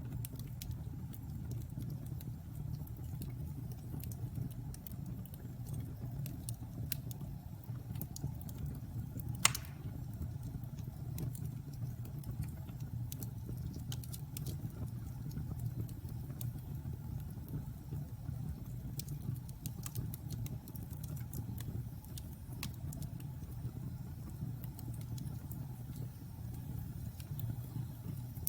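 Logs burning in a fireplace: a steady low rumble from the fire with frequent sharp crackles and pops, and one much louder pop about a third of the way through.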